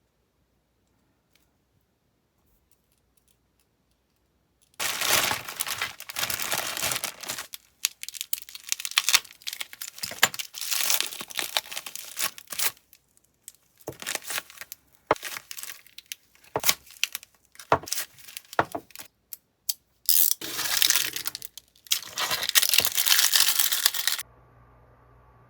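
Packaging being torn open and crinkled by hand in repeated bursts. It starts about five seconds in and stops abruptly shortly before the end, leaving a faint steady hum.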